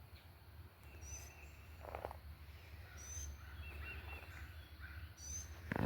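Faint garden ambience: a bird gives short high chirps about every two seconds, with some quieter twittering in between, over a steady low rumble.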